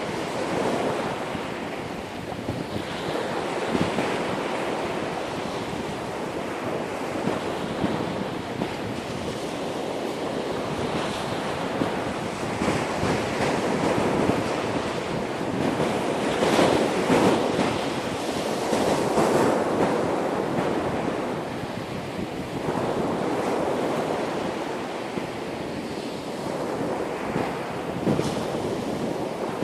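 Ocean surf breaking and washing up the shore, rising and falling in swells every few seconds, with wind buffeting the microphone.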